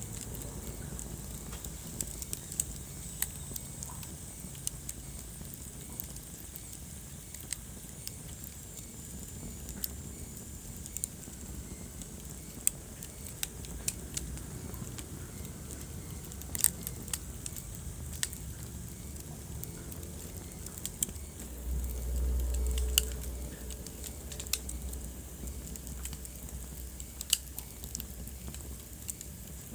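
Wood fire burning in a fireplace: steady low rumble with irregular sharp crackles and pops. About two-thirds of the way through, a louder low rumble swells for a couple of seconds.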